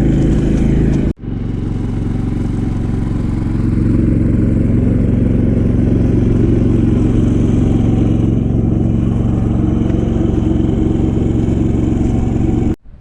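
Vehicle engine running at a steady speed, cut off abruptly about a second in and again near the end.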